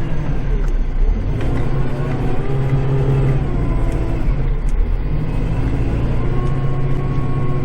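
Kubota tractor's diesel engine running inside the cab while plowing heavy snow with the front blade, its engine speed rising and falling twice as the load comes on and eases.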